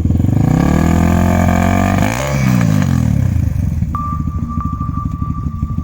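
A quad bike's engine revs hard, holds high, then drops back about two seconds in, settling to a lower, pulsing run.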